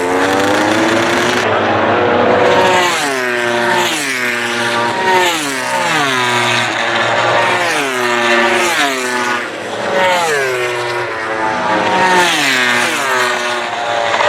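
Racing motorcycles braking and downshifting, several in quick succession. Each engine note drops in steps as the rider changes down, and the notes overlap one after another.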